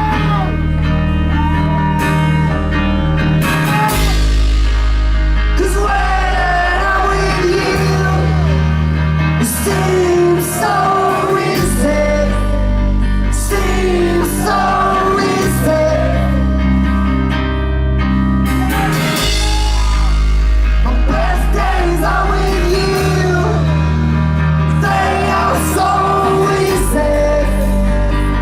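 Live rock band playing with a singer over them: guitar, bass and drums, the bass moving to a new held note every couple of seconds.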